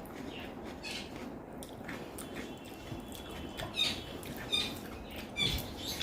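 Eating sounds: soft wet chewing with scattered sharp mouth clicks and smacks, a few louder ones in the second half.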